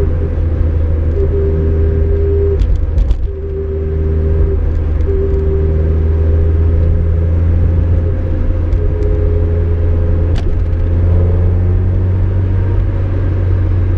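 Mazda MX-5 Miata rear differential whining over the steady drone of the car driving. The whine comes and goes several times as speed is held and then changes, the sign of badly chewed-up ring and pinion gears.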